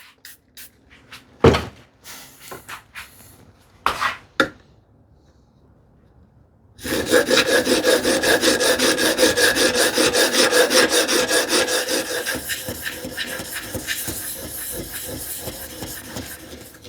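A few knocks as a spokeshave blade in a wooden honing guide is handled, then from about seven seconds in the blade is rubbed back and forth on a sharpening stone in fast, steady strokes, a little quieter in the last few seconds.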